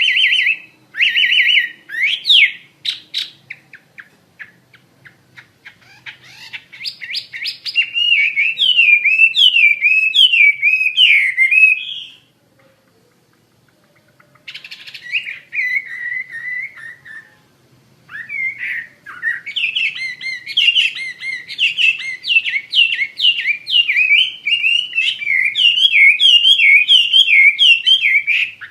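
Chinese hwamei singing loudly in long, fast phrases of rapid rising and falling warbled notes. The song breaks off for about two seconds near the middle, then comes back and grows more rapid.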